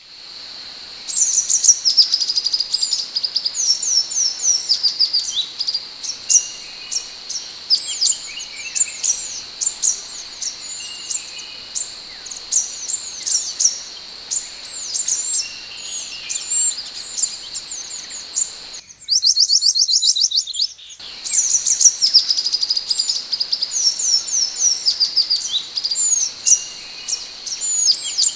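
Minivet (sepah hutan) calling continuously: a quick run of high, thin chirps and short downslurred whistles, many a second. A steady high whine sits beneath. The calls thicken into a dense rapid trill for about two seconds near two-thirds of the way through.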